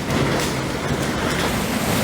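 Hurricane-force wind blowing hard, a loud steady rush of noise with no break.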